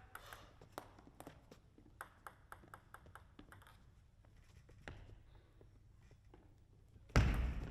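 A table tennis ball ticking sharply off bats and the table, single clicks at uneven intervals. Near the end, a sudden loud burst of crowd cheering breaks out.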